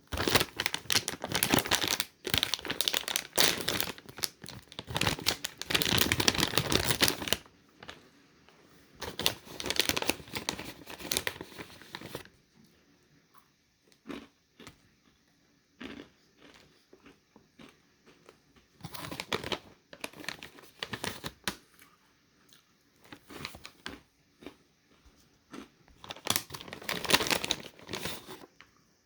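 Granola package being torn open and crinkled, with dense rustling for the first several seconds, then a few shorter bursts of crinkling with pauses in between.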